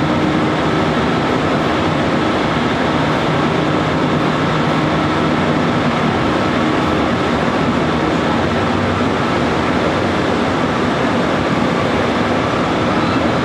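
Electric train running steadily at speed, heard from inside the driver's cab: an even rush of wheels on rail with a faint steady hum underneath.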